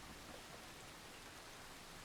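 Faint, steady rain: an even hiss with no distinct drops or thunder.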